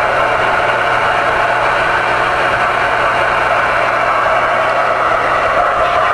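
Steady rushing static from a CB radio's speaker, with a low hum underneath, while the receiver sits on channel 19 waiting for a reply to a radio-check call.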